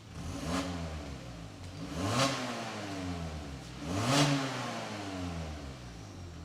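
Kia K5 2.0 gasoline inline-four revved in three short throttle blips through a dual variable-valve exhaust with a reworked factory main muffler, the pitch climbing and falling back to idle after each blip.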